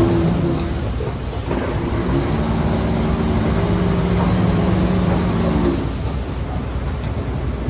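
Heavy diesel engine of earthmoving machinery running at a steady pitch, with a short break about a second in, then easing off into a lower rumble about six seconds in.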